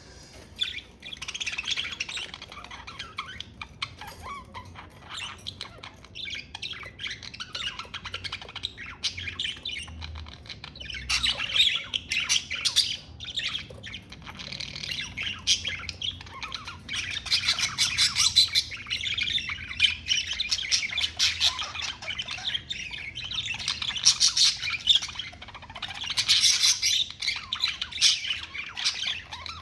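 Budgerigars chattering and warbling, a dense run of quick chirps and squawks that swells louder at times.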